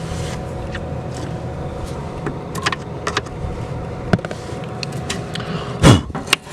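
Steady machine hum with several held tones, with scattered light clicks and knocks from handling and one loud thump about six seconds in.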